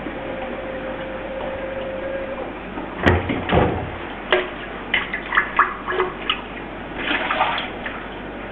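Tap water running into the emptied plastic housing of a water filter unit to rinse it, a steady hiss for about two and a half seconds. This is followed by a series of plastic knocks and clicks as the housing is handled, and a short splash of water near the end.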